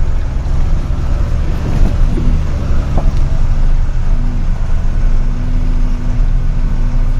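Truck engine running under way, a loud steady low rumble; a steady hum joins about four seconds in.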